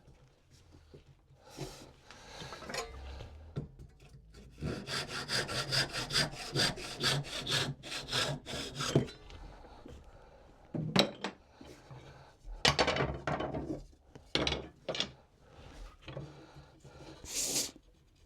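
Hand saw cutting through a wooden spindle, a quick, even run of strokes at about five a second for some four seconds, with a few slower, separate strokes before and after.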